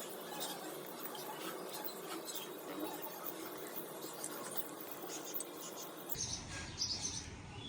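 Faint scraping and light tapping of a knife cutting onions and garlic. About six seconds in, the background changes abruptly and birds start chirping.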